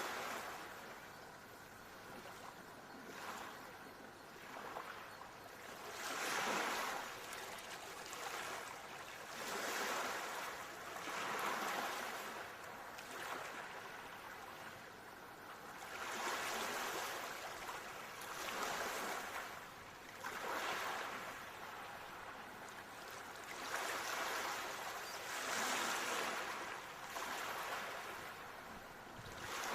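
Ocean surf: waves breaking and washing in, the hiss swelling and fading every few seconds.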